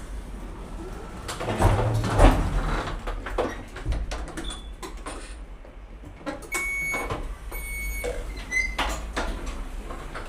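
Station lift doors sliding with a heavy clunk about two seconds in, followed by two steady electronic beeps and a short chirp in the second half, with scattered knocks.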